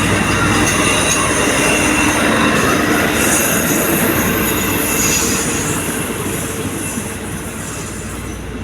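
Train rolling past on the rails with squealing wheels. A low engine hum fades early, and the rolling sound slowly grows fainter toward the end.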